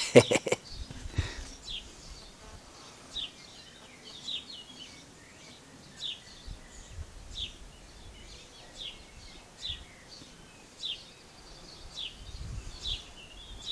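A bird repeating short, high chirps that fall in pitch, one about every second, over a faint background. A quick burst of loud clicks comes right at the start.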